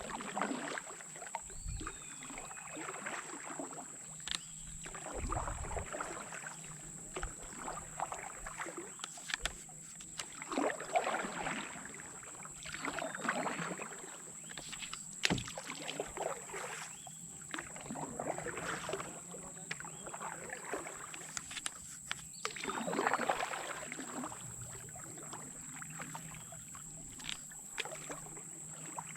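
Canoe paddle strokes swishing through river water, about one every two seconds, with a single sharp knock about halfway through.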